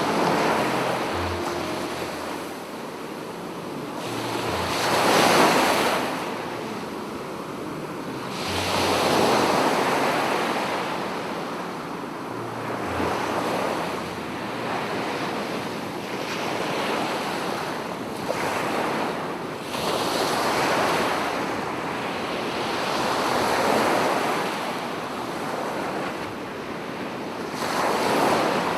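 Sea waves breaking and washing up a beach, the surf swelling and fading every few seconds, with wind buffeting the microphone.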